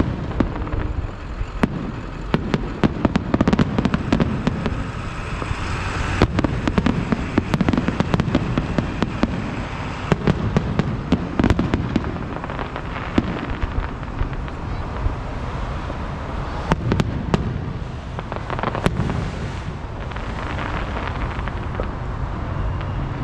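Aerial fireworks bursting in rapid succession: many sharp bangs and crackles over a continuous low rumble of explosions.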